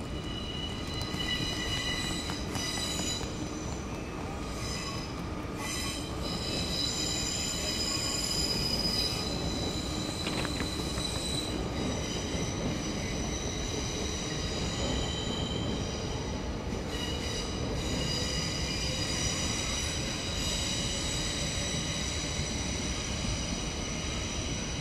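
Train wheels squealing on the rails of a station approach: several high, steady squealing tones that come and go over a constant rolling rumble.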